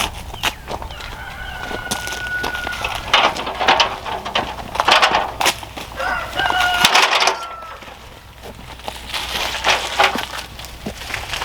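A rooster crowing twice, about a second in and again about six seconds in, amid scattered short knocks.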